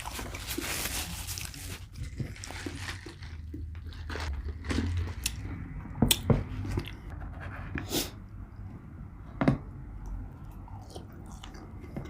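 A person chewing McDonald's food, with a few short, sharp mouth clicks and smacks in the second half.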